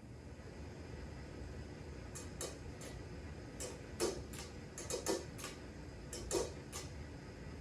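Ceiling fan running with a low steady hum. Through the middle of it come about a dozen light, irregularly spaced clicks and taps.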